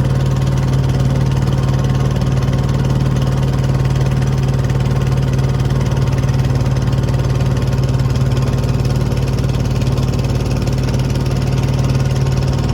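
An engine running steadily at constant speed, a loud unbroken low drone with no change in pitch.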